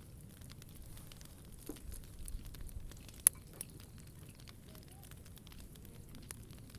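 Wood fire crackling, with scattered faint pops and one sharp loud pop about three seconds in.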